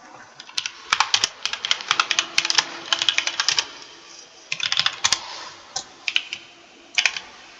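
Computer keyboard being typed on: a fast run of key clicks for about three seconds, then shorter bursts of keystrokes with pauses between, and a last few keystrokes near the end.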